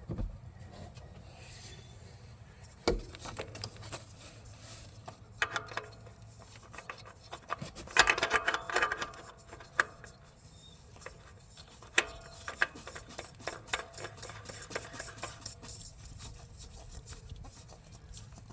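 Hands fitting a new oil filter onto a Polaris Sportsman 450 ATV engine in a cramped spot: scattered clicks and knocks with rubbing, and a longer scraping rub about eight seconds in.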